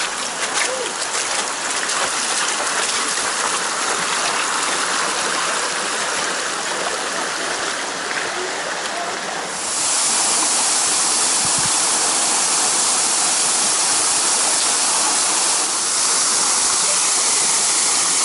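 Rushing water, a steady hiss, as of a river rapid or waterfall. About ten seconds in it abruptly turns louder and brighter, and stays so.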